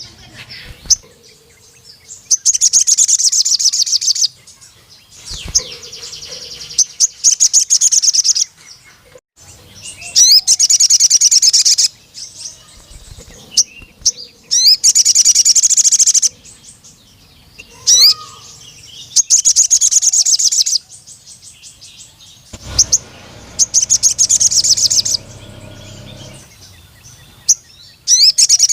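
Male crimson sunbird (sogon) singing: repeated loud bursts of very rapid, high-pitched twittering trills, each about two seconds long, a few seconds apart.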